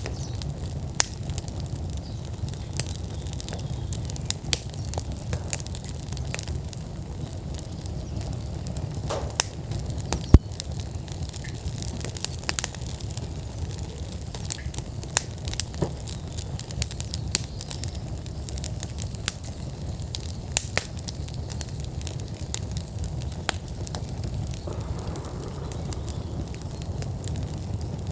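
Wood fire burning in an outdoor fire pit at full burn: a steady low rush of flames with frequent sharp pops and crackles, one pop much louder than the rest about ten seconds in.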